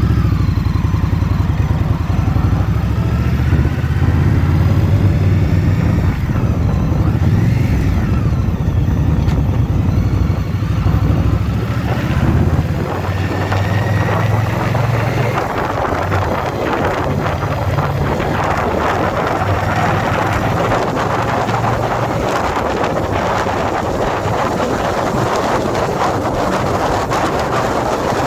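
Indian Scout Bobber's V-twin engine running under way, with a few rises in pitch as it pulls, strong over roughly the first half. From about halfway on the engine drops back and wind rushing over the microphone takes over.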